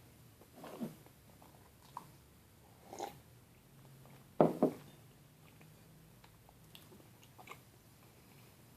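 Mouth sounds of someone eating an overstuffed peanut butter and jelly sandwich: a few scattered bites and chews. The loudest is a quick pair of sounds about halfway through, with fainter clicks after it.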